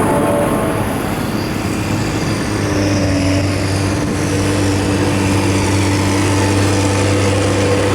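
Tractor engine running steadily as the tractor drives by, a low engine drone that settles into a steady pitch about two and a half seconds in.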